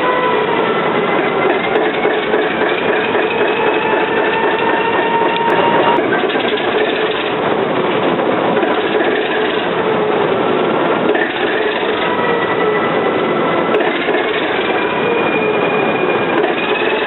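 ALCO 539T turbocharged six-cylinder diesel engine of a 1944 switcher locomotive running steadily, its pitch drifting slowly up and down.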